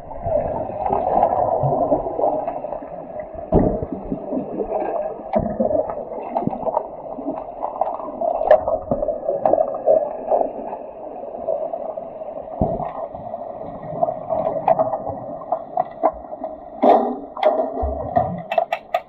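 Muffled, underwater-sounding swimming-pool water noise with bubbling, broken by scattered sharp knocks, typical of hockey sticks and the puck striking the pool floor during underwater hockey play.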